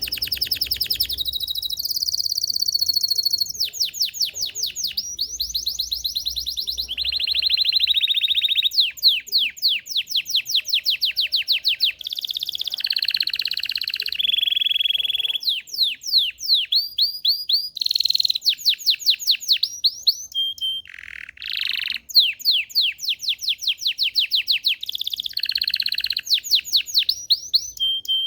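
Belgian canary singing a continuous song: fast runs of rapidly repeated falling notes alternating with rolled trills and short held buzzy notes, each phrase lasting a second or two before the next begins.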